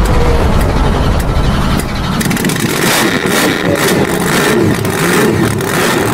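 Car engine revving, loud and continuous.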